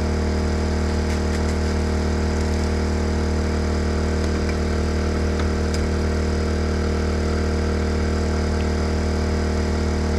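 Generator engine running at a steady, unchanging speed, a constant hum, with a few faint clicks over it.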